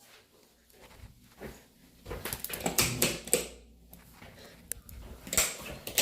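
A series of short knocks and rustles, clustered about two seconds in and again about five seconds in.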